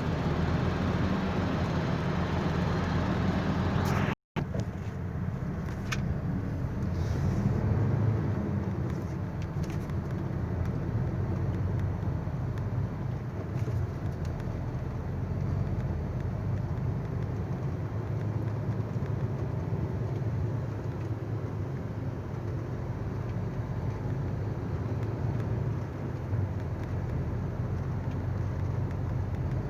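Truck engine running steadily under way, a constant low rumble, with a momentary dropout about four seconds in.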